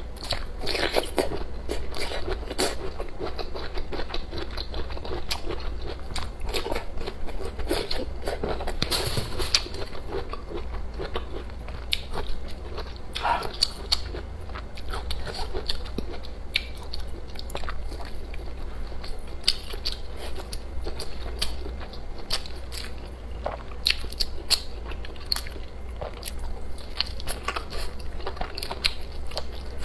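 Close-miked eating: a person chewing and biting food with the mouth near the microphone, irregular wet clicks and small crunches throughout, over a low steady hum.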